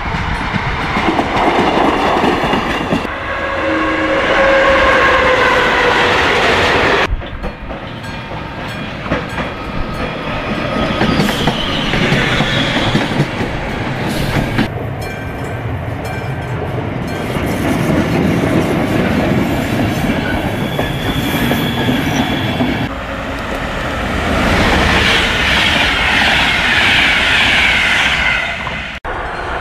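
Trains passing over level crossings, wheels clicking over the rail joints, in several short clips cut together, with steady high tones at times.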